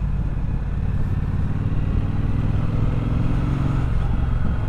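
Triumph Bobber's 1200 cc parallel-twin engine running while the motorcycle is ridden. The engine note strengthens through the middle and drops away abruptly about four seconds in.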